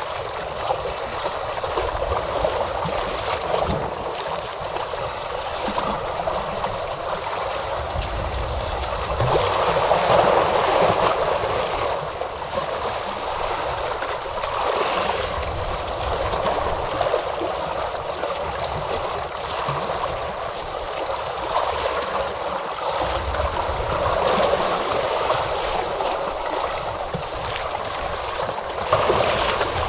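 Ocean waves washing onto a shore: a continuous rush of surf that swells and falls back, with a louder wave breaking about a third of the way in and another near the end.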